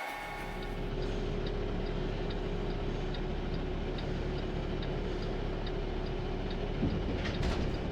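Semi truck's diesel engine running steadily with a low hum, and a faint, even ticking over it. There is a thump about seven seconds in.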